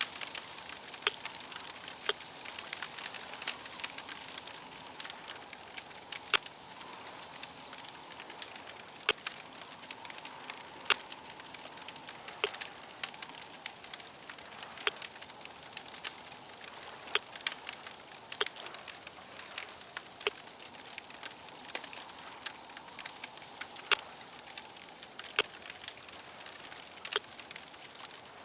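Crackling fire: a steady hiss with frequent irregular sharp pops and snaps, some louder than others.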